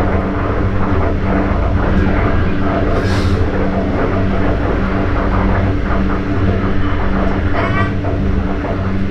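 Steady low rumble inside a moving sleeper train carriage, with a pulsing hum underneath. A short hiss comes about three seconds in.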